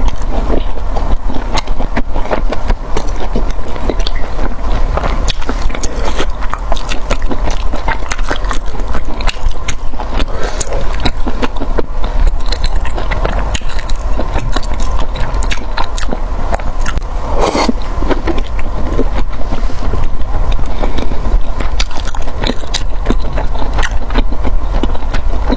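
Close-miked eating: a person biting and chewing food, with a dense run of short crisp clicks and crackles over a low rumble, and one louder burst about two-thirds of the way through.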